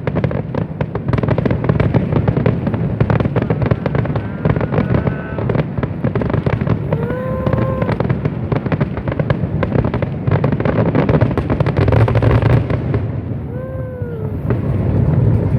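Fireworks going off: a dense, rapid run of bangs and crackles over a steady low rumble, easing briefly near the end, with a few short rising-and-falling tones over it.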